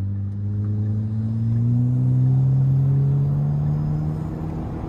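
Turbocharged Kia's engine pulling steadily, heard from inside the car, its pitch climbing slowly for the first couple of seconds, then holding and easing off near the end.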